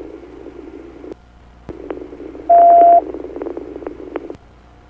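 Two-way radio channel hiss with scattered clicks, dropping out briefly about a second in. A single loud, steady beep of one tone lasts about half a second, roughly halfway through.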